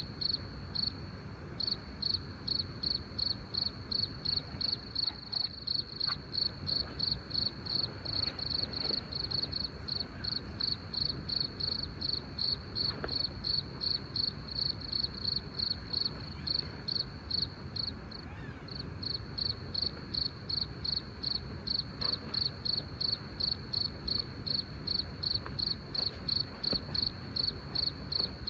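An insect chirping in a steady, even rhythm of about three to four high-pitched chirps a second. It pauses briefly about a second in and again around the middle.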